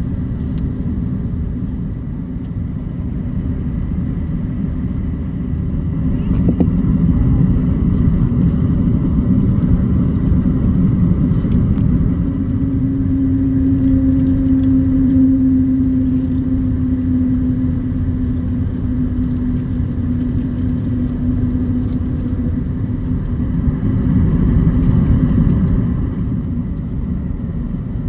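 Cabin noise inside an Airbus A350-900 on the ground before departure: the Rolls-Royce Trent XWB engines and the rumble of the airframe and wheels. The rumble gets louder about six seconds in, and a steady hum comes in about twelve seconds in and fades out later on.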